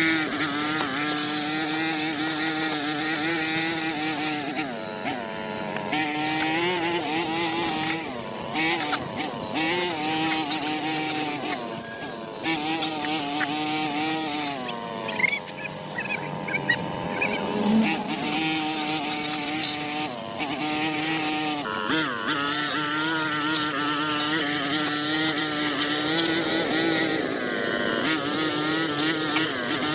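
Small petrol engine running steadily with a hissing noise over it, its pitch wavering slightly and easing off briefly a few times.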